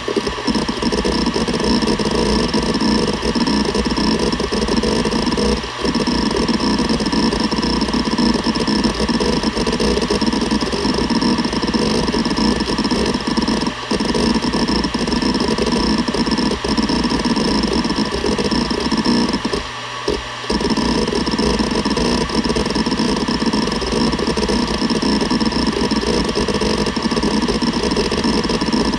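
Seagate Barracuda ES.2 ST31000340NS 7200 rpm hard drive running with busy, continuous seeking over a steady spindle whine, broken by a few brief pauses.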